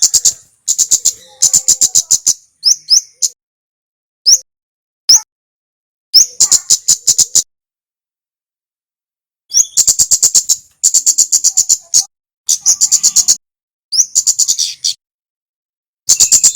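A male kemade bird calling in loud bouts: each opens with a short upslurred whistle and runs into a fast train of sharp, high ticking notes, with a longer pause about halfway through.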